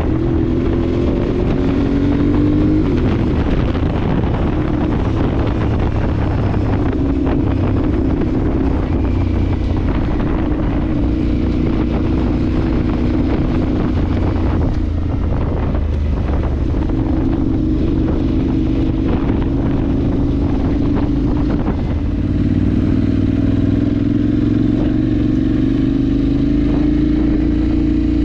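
Adventure motorcycle's parallel-twin engine running while riding off road, its pitch rising and falling with the throttle, with many short knocks and rattles over it.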